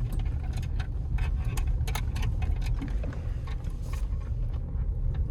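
Pickup truck driving slowly, a steady low rumble with scattered sharp clicks and crackles throughout.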